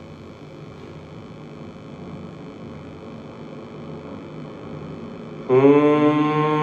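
Bhramari pranayama humming: a faint, steady nasal 'mmm' hum, then a new humming breath comes in loud about five and a half seconds in. Its pitch rises briefly at the onset and then holds steady.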